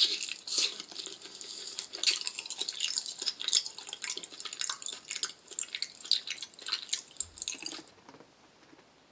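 Close-miked wet eating sounds of raw liver being bitten and chewed: a dense run of sticky smacks and mouth clicks that stops about eight seconds in.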